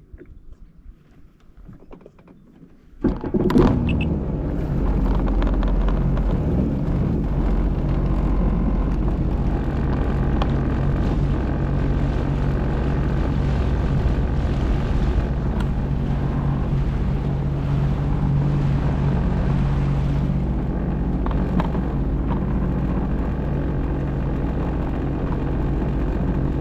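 Jet ski engine throttling up sharply about three seconds in, then running steadily at cruising speed with a constant drone, easing off at the very end.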